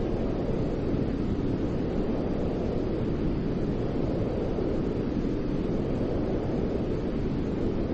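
Steady white noise for sleep, a deep, even rushing hiss with little treble, unchanging throughout.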